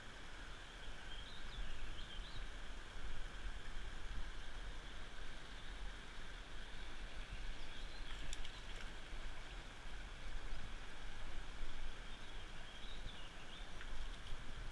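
Steady rushing outdoor background noise with a low rumble of wind on the microphone. Short bird calls come about a second in, again near the middle, and near the end.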